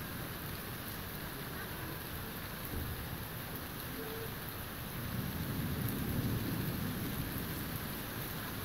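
Steady summer rain falling on garden foliage and lawn, an even hiss. About five seconds in, a low rumble of distant thunder swells for a couple of seconds and fades back.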